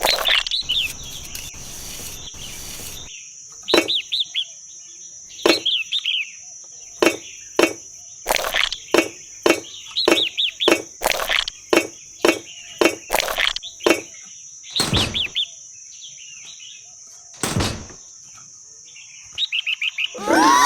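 Small bird chirping in quick, repeated short notes that fall in pitch, mixed with many sharp clicks and taps and a steady high-pitched background hiss.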